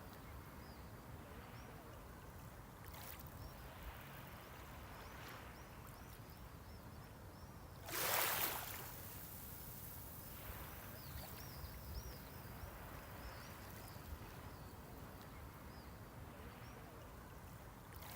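Small sea waves washing on the shore, with one louder wave rushing up about eight seconds in. Faint, short, high chirps come and go in the background.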